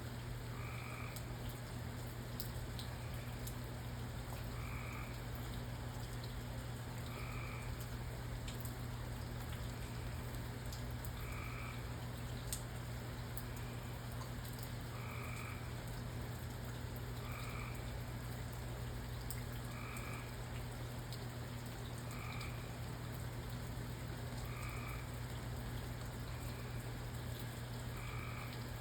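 A frog calling repeatedly, one short croak every two to three seconds, over a steady rain hiss with scattered drips. A low steady hum runs underneath.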